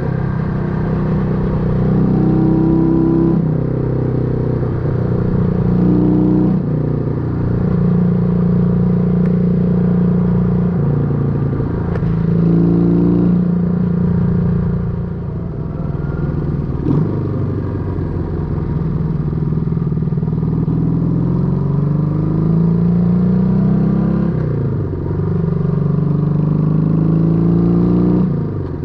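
1968 Honda Dream CD250 parallel-twin engine and exhaust under way. The engine note rises as it pulls through the revs and falls back several times, with short dips where the throttle is rolled off.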